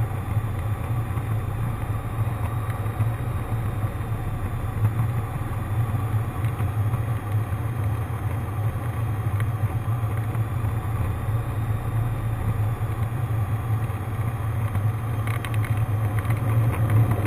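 Cessna 152's four-cylinder Lycoming O-235 engine and propeller droning steadily in the cockpit, with a faint thin whine high above.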